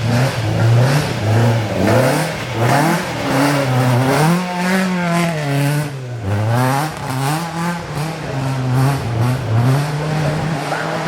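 Rally car engine revving hard as the car is driven through a stage, its pitch climbing and dropping again and again with throttle and gear changes.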